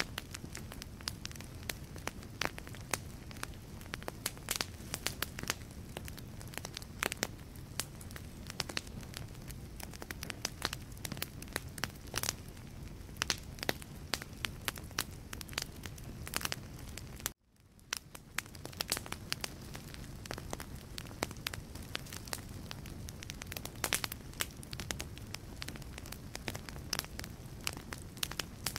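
Wood logs burning in a fireplace, crackling with frequent irregular sharp pops over a steady low rumble of flame. The sound cuts out abruptly about two-thirds of the way in and fades back within a second.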